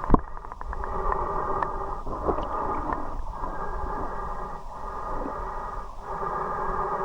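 Muffled, steady rush of flowing river water, with a soft dip in level about every second and a half. There is one sharp knock right at the start.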